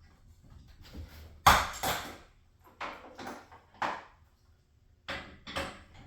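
A run of about seven sharp knocks or clanks at uneven spacing, the loudest about a second and a half in, from hand-tool work on garage door spring hardware.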